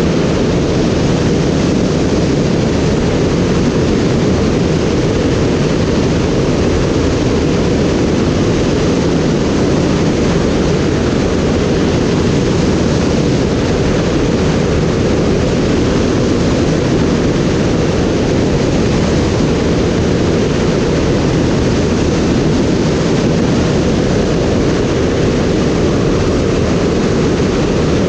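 Steady, loud rush of an aircraft in flight: engine and propeller noise mixed with airflow, unchanging throughout, heaviest in the low end.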